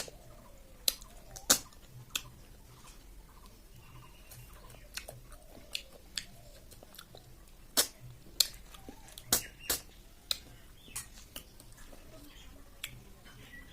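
Close-miked eating of snail curry: chewing with sharp, irregular mouth clicks and smacks, about a dozen spread unevenly through the stretch.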